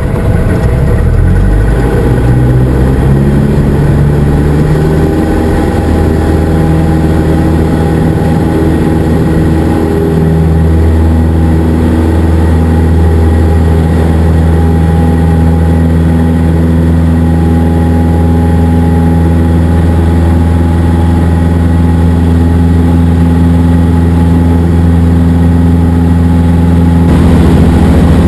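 Cessna 172SP's four-cylinder Lycoming IO-360 engine and propeller running loud and steady, heard from on board. The pitch rises over the first couple of seconds, then holds.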